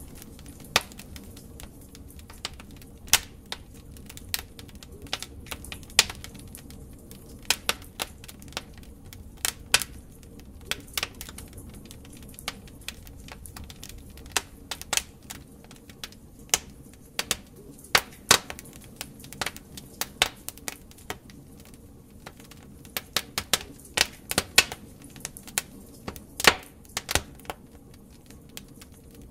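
Wood fire burning in a fireplace: irregular sharp crackles and pops over a low steady hiss of the flames, the pops coming in clusters with a few loud ones, loudest near the end.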